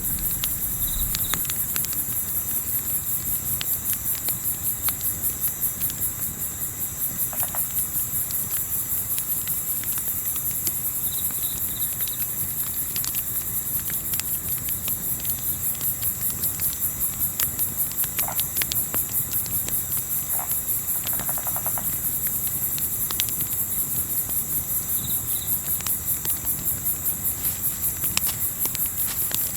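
Crickets chirping in a dense, steady, high-pitched pulsing chorus, with scattered sharp crackles from a campfire. A few short faint calls come through now and then.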